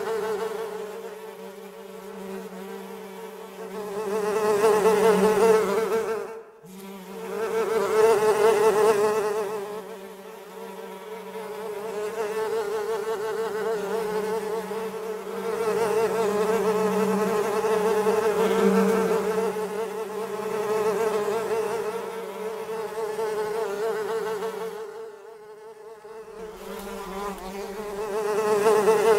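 Flies buzzing in flight: a steady wing hum that swells and fades as they come near and move off, cutting out sharply for a moment about six seconds in.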